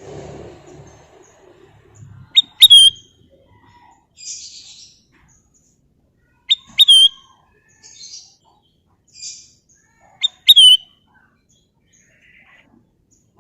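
Kutilang emas, a bulbul, giving three short whistled phrases about four seconds apart. Each is a quick upward note followed by a clear note that curls downward. Fainter rustling hiss falls between the phrases.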